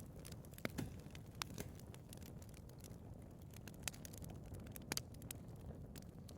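Wood fire burning in a fireplace: a low steady rush of flame with scattered sharp crackles and pops, a few louder snaps among them.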